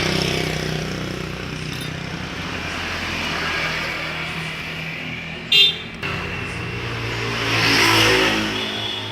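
Road traffic passing by, with engines swelling up and fading twice. A short vehicle horn toot sounds about five and a half seconds in.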